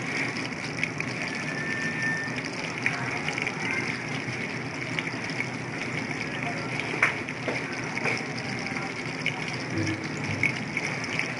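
Chicken lollipops deep-frying in hot oil: a steady sizzle with scattered pops and crackles.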